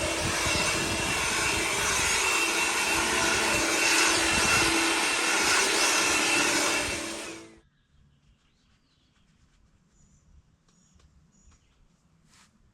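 Sawmill running with a loud, steady machine noise and a steady hum, which cuts off about seven and a half seconds in. After that there is near silence with a few faint clicks.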